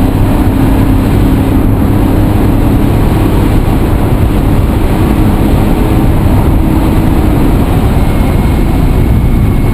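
A vehicle engine running with a loud, steady drone and a low humming tone that fades out about seven seconds in.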